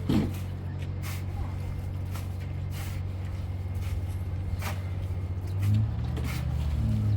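An engine or motor running steadily with a low hum, with scattered light clicks and knocks over it. The hum swells about two-thirds of the way in and again near the end.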